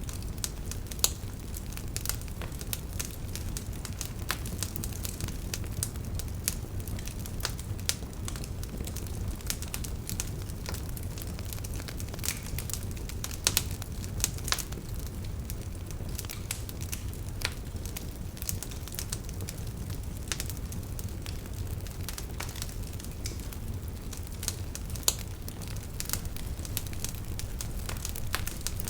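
Wood fire burning in a fireplace: a low, steady rumble of flames with irregular sharp crackles and pops throughout, a few louder snaps about a second in, around the middle, and near the end.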